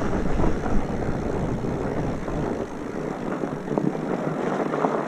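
Mountain bike rolling fast down a rough, steep dirt trail: a steady rushing rumble with frequent small knocks and rattles from the bike over the bumps. The deep rumble eases about three seconds in.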